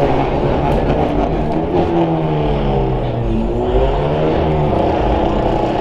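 A car engine running and being revved, its pitch dropping and then climbing again around the middle.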